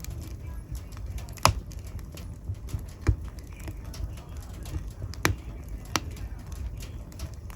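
Wood fire burning in a fireplace: a steady low rumble of flames with irregular crackles and a few sharp pops.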